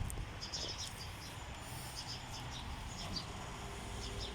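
Small birds chirping in short, scattered high notes, several in a row, over a steady low rumble of background noise.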